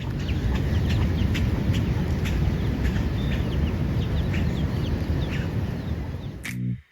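Birds chirping in many short, quick, downward-sliding calls over a steady low rushing noise. The sound cuts off suddenly near the end.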